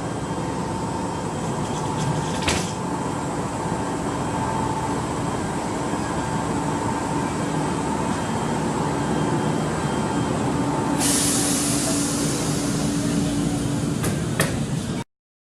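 Train noise on the Toyama Chiho Railway: a steady rumble with a constant hum, a sharp click about two and a half seconds in, and a loud hiss that starts about eleven seconds in and keeps going.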